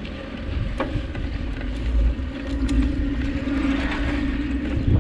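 Wind rushing over the microphone during a ride, a rough low rumble with a few clicks and a steady hum in the middle.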